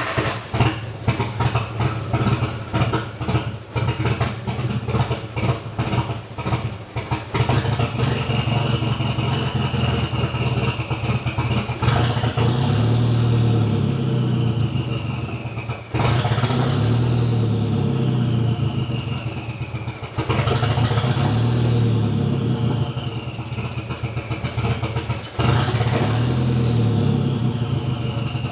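Nissan CA18DET 1.8-litre turbo four-cylinder, just started half-warm and running through an open downpipe, misfiring. For the first several seconds it stumbles unevenly and wants to die. Then it settles into a ragged run, with a surge about every four seconds, each followed by a whine falling away.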